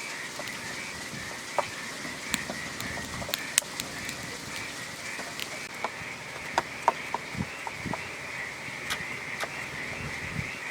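A steady, high-pitched wildlife chorus trilling without a break, with scattered sharp clicks and a few soft thumps over it.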